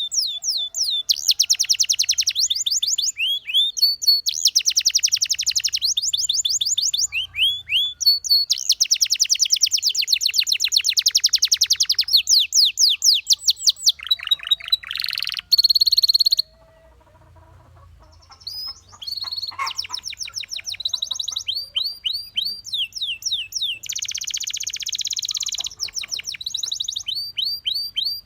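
Domestic canary singing long trills of rapid repeated high notes and sweeping whistles, one phrase after another. It breaks off for about two seconds a little past the middle, then resumes.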